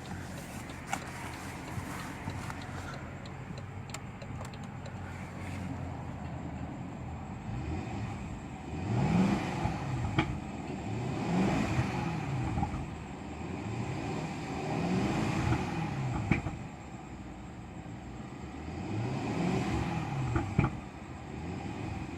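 2017 BMW 650i Gran Coupe's 4.4-litre twin-turbo V8 idling steadily, then revved about four times. Each blip rises in pitch and falls back to idle.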